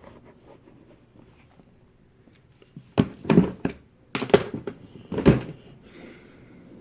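Plastic fidget toys being handled and set down in a small room, with a series of sharp knocks and thuds in three quick clusters during the second half.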